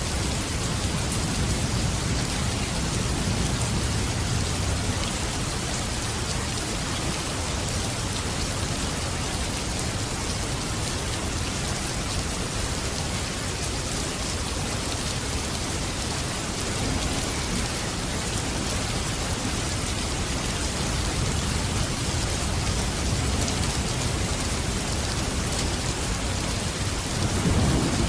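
Steady heavy rain falling, with low rolls of thunder swelling a few seconds in and again near the end.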